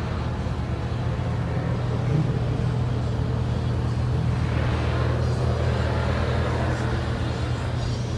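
1980 Pontiac Trans Am's engine running steadily at low speed, heard from inside the cabin as the car creeps along in a line of cars. A rushing hiss swells about halfway through and fades again.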